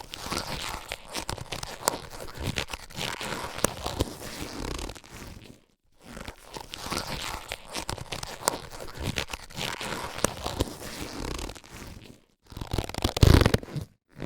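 Latex surgical gloves being handled, rubbing and stretching with a crackling, scraping sound full of small clicks. It comes in runs broken by two short pauses, and the loudest handling comes near the end.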